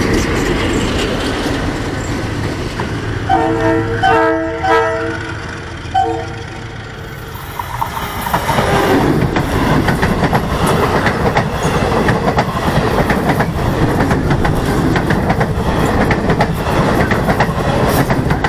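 A train rumbles past close by, and a multi-tone train horn sounds several short blasts about three to six seconds in. From about eight seconds an electric suburban train runs close past, its wheels clicking steadily over the rail joints.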